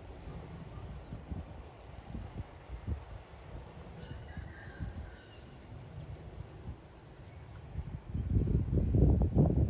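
Rural outdoor ambience: a steady high insect drone under irregular low rumbling and knocks, which grow much louder near the end.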